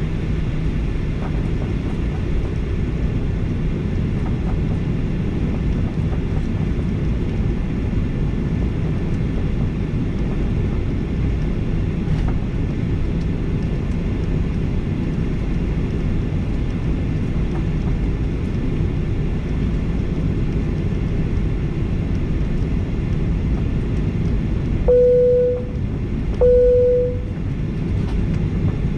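Steady low rumble inside a Boeing 737-800 cabin, its CFM56 engines running while the airliner taxis before takeoff. Near the end there are two short, even chime tones about a second and a half apart.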